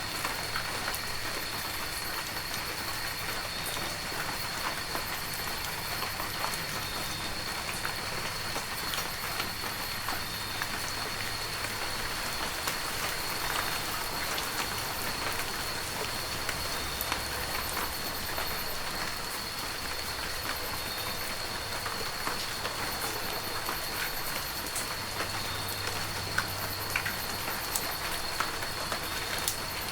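Heavy rain falling steadily, with many sharp drop ticks on the surface and a steady high tone under it.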